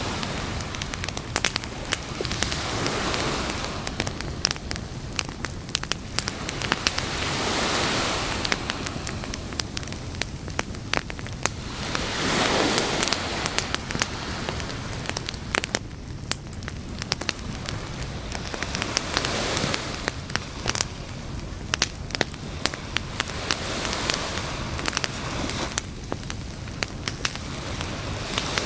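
Campfire crackling and popping, with many sharp snaps throughout, over a rushing swell of waves that rises and fades every few seconds.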